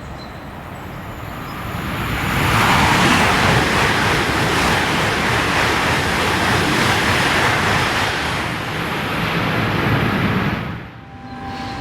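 High-speed TGV train passing through the station at speed: a rushing roar of air and wheels on rail that builds over about two seconds, holds for several seconds, then drops away sharply near the end.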